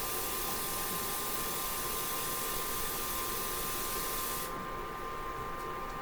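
Steady hiss of running water as a quart of water is added to the soup pot, cutting off suddenly about four and a half seconds in.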